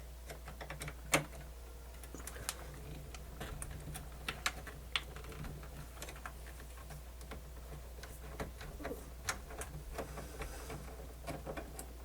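Irregular small clicks and taps of tools and small parts as a cassette deck's motor assembly is worked loose, over a steady low hum.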